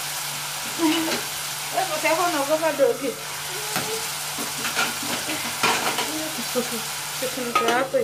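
Meat and tomatoes frying in a pot: a steady sizzle, with a couple of sharp knocks around the middle.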